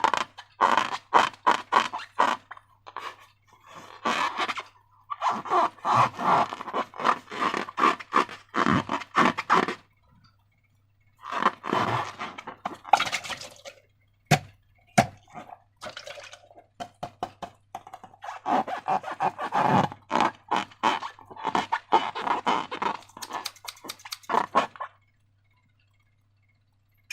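Slime being squished and worked by hand, a run of wet clicking and crackling in several bursts, with a short pause about ten seconds in and silence near the end.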